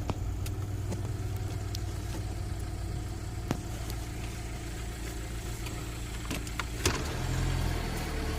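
Minibus camper's engine running at low speed, heard from inside the cab as a steady low rumble with a few sharp clicks and rattles. The rumble swells louder about seven seconds in.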